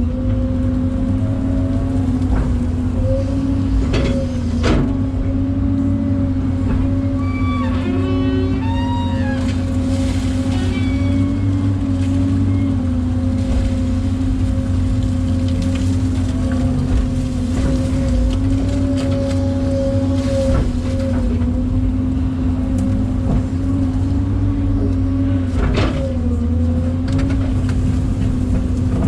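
Excavator's diesel engine and hydraulics running at a steady speed, a low rumble with a constant hum, with a few sharp knocks or clanks, two of them about four seconds in and one near the end.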